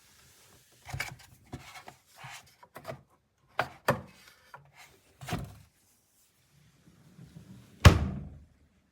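A series of irregular knocks and thuds from objects being handled, about nine in all, with the loudest one about eight seconds in.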